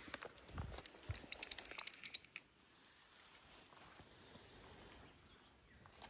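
A couple of soft thuds and a quick rattling run of clicks in the first two seconds, then faint steady background.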